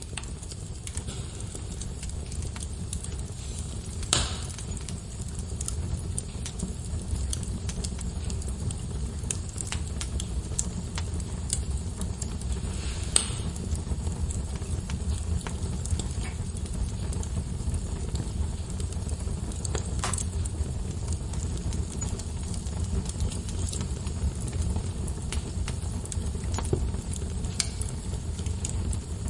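Wood fire crackling in a fireplace: scattered sharp pops and snaps over a steady low rumble, with louder pops about 4, 13 and 20 seconds in.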